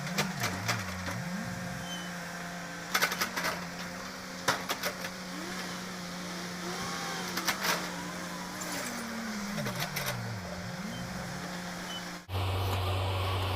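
Vehicle engine running with a steady note, its pitch swooping up and down several times, with a few sharp clicks; about twelve seconds in it cuts abruptly to a lower steady hum.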